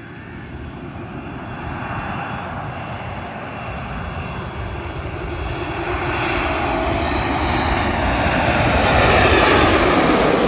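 Jet airliner's engines passing low overhead: a rumble that grows steadily louder, peaks near the end with a high whine falling in pitch as the plane goes over, then starts to fade.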